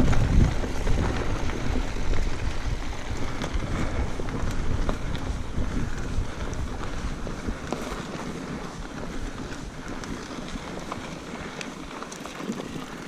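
Mountain bike riding down a dirt singletrack trail: wind buffeting the microphone over the rumble of the tyres and rattling of the bike, with scattered clicks. It gradually eases off.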